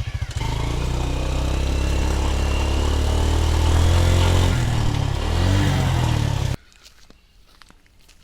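A vehicle's engine, pulsing at idle, then picking up and running louder with rising pitch, wavering about five seconds in. It cuts off suddenly near the end, leaving only faint clicks.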